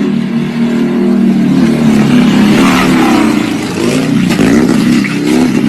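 Dirt bike engine revving, its pitch rising and falling repeatedly.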